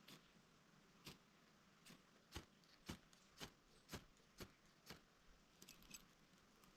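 Flint and steel being struck: a string of sharp, faint strikes, about two a second, then a few quicker, smaller clicks near the end.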